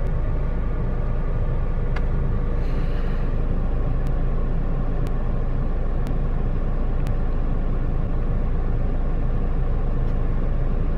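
Steady low rumble of a car in motion, with faint clicks about a second apart near the middle.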